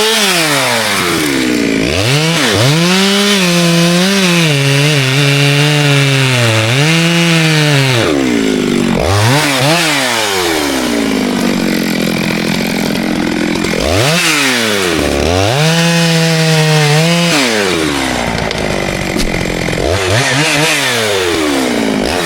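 Two-stroke chainsaw engine revving up and down repeatedly. Between dips it holds a steady high pitch for a few seconds at a time while cutting wood.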